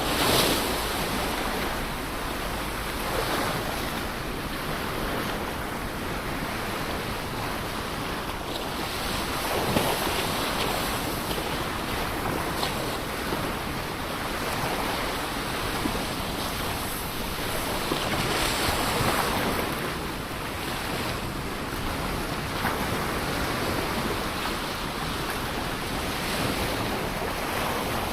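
Ocean surf: a steady wash of waves breaking on the shore, swelling louder every several seconds as a bigger wave comes in.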